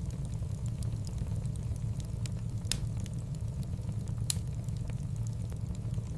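Wood fire in a fireplace crackling: irregular sharp pops and snaps over a steady low rumble, with two louder pops in the middle stretch.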